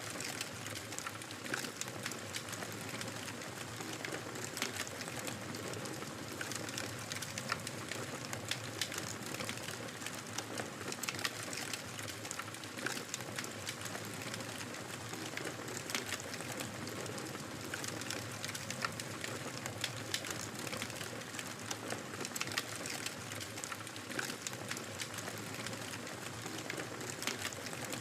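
Wood fire crackling in a fireplace: a steady hiss with frequent, irregular sharp pops and crackles.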